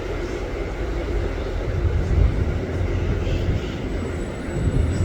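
Metrorail train rumbling low and steadily at the elevated station, swelling slightly about two seconds in.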